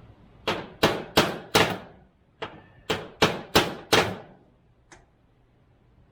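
Hammer blows in quick succession, about three a second: four sharp strikes, a short pause, then five more and a faint last tap.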